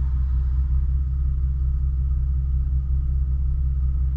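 Infiniti Q50S V6 idling, heard from inside the cabin through an exhaust of test pipes and Vibrant Super Quiet resonators: a steady, fairly quiet low drone.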